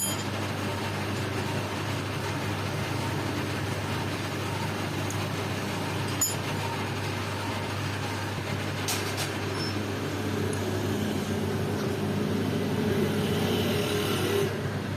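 A machine's steady low hum, with a single sharp click about six seconds in.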